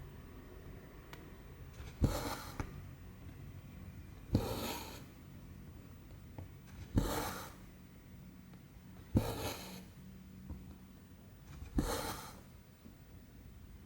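Hand cross-stitching on 14-count canvas: a needle pops through the fabric and cotton thread is drawn through with a short rasping swish. This happens five times, about every two and a half seconds.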